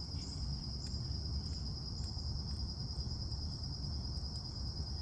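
Crickets trilling in a steady, high-pitched chorus over a low rumble.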